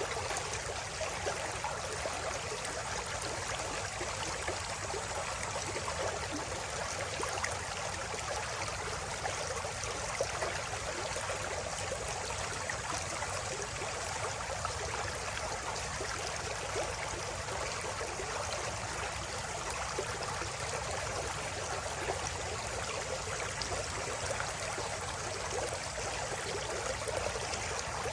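A river stream flowing steadily over rocks, a continuous babbling and trickling of running water.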